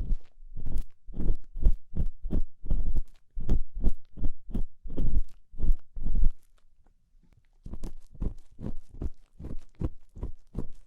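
ASMR ear cleaning close on a microphone ear: an ear-cleaning tool scraping and rubbing in the ear canal in short strokes, about two or three a second, with a brief pause about two-thirds of the way through.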